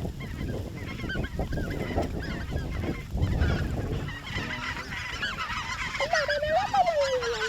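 A flock of greater white-fronted geese (specklebellies) calling overhead: many short, high, yelping calls overlapping. A longer, lower, wavering call comes in near the end, with wind rumbling on the microphone underneath.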